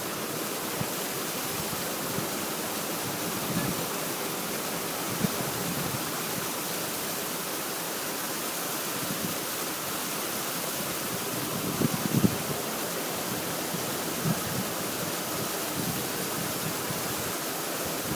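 Steady rush of running water, with a few brief low knocks about two thirds of the way through.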